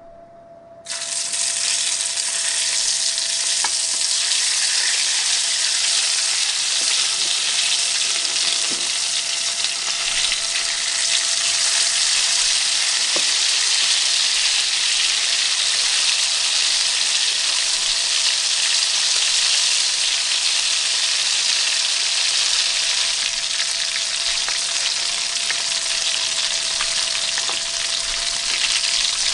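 Parboiled potatoes sizzling in a roasting tin of hot fat, a steady, loud hiss of frying that starts suddenly about a second in.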